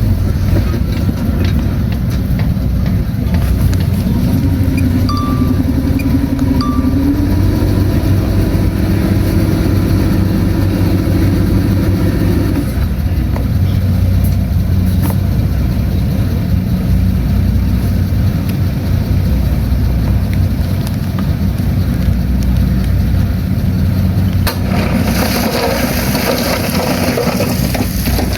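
Heavy earthmoving machine's diesel engine running steadily and loudly; its pitch climbs about four seconds in, holds, and drops back around thirteen seconds. Near the end a broad rushing noise joins the engine.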